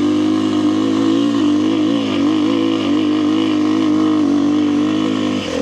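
Kawasaki KLX300R dirt bike's single-cylinder four-stroke engine pulling under load in second gear up a steep hill climb, held at fairly steady revs with a slight waver, easing briefly near the end.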